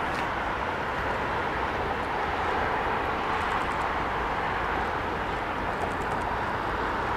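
Jet airliner engines making a steady rushing roar, with no rise or fall in pitch.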